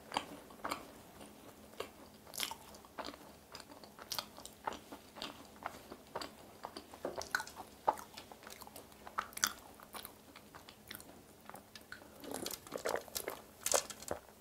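Close-up mouth sounds of chewing a thick-filled macaron: soft crunches and wet smacks at irregular intervals. Near the end come sips and swallows of milk.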